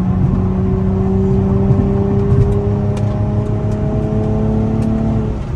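2007 Infiniti G35 Coupe's V6 with a Motordyne exhaust pulling hard under heavy part throttle, its note climbing slowly and steadily as the revs build. About five seconds in the throttle is lifted and the tone falls away. It is heard from inside the cabin with the windows up.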